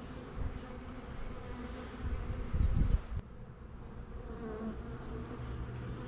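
Honey bee swarm buzzing steadily around the catch box. A louder low rumble comes about two seconds in and stops with a sharp click about a second later.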